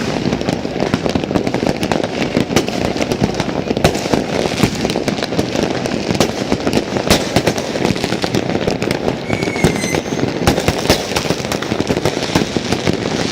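A dense New Year's fireworks barrage: a continuous crackle of pops and bangs with no let-up, and a short whistle about nine and a half seconds in.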